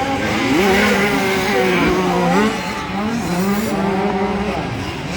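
Several 65cc two-stroke motocross bikes racing, their engines overlapping and revving up and down in pitch as the riders work the throttle and shift.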